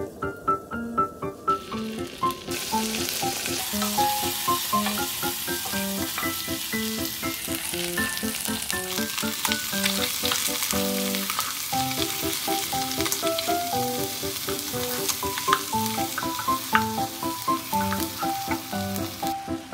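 Whole peeled eggs and sliced onions sizzling as they fry in hot fat in a pot, stirred with a wooden spatula. The sizzling sets in about two seconds in and holds steady, over light background music.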